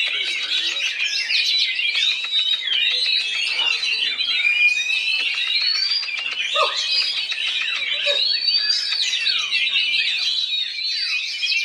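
Oriental magpie-robin (kacer) singing a rapid, unbroken, varied song of quick whistled phrases and sweeping notes.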